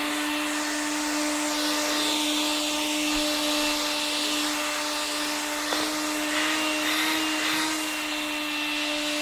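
Electrolux vacuum cleaner running steadily, its motor giving an even, unchanging whine, with one short click about six seconds in.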